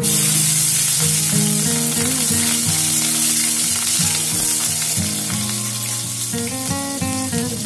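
Green chillies dropped into hot mustard oil in a wok, sizzling loudly at once and frying on as the spatula stirs them. Background music with a melody plays underneath.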